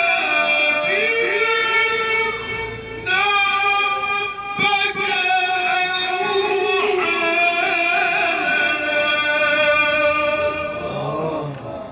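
A man chanting Quran recitation in long, drawn-out melodic notes, each held for seconds with wavering ornamental turns, briefly breaking off twice and fading out near the end.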